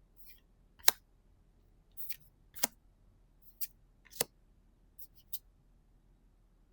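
Crisp snaps and clicks of One Piece trading cards being handled and set down, about seven sharp ones spread unevenly with a soft swish at the start.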